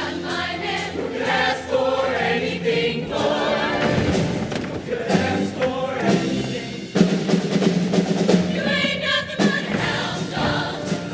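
Show choir singing, many voices together in a continuous passage of a song.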